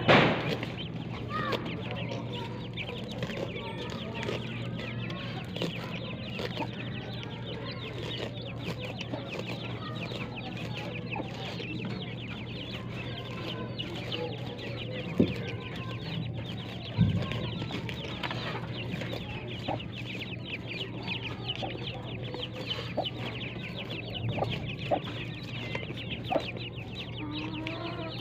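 Many young chickens cheeping and clucking continuously, a dense chatter of short high calls, over a steady low hum, with two brief knocks in the middle.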